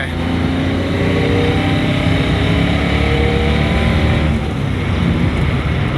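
Vehicle engine running steadily while driving along a road, with road noise; its note drifts slightly in pitch.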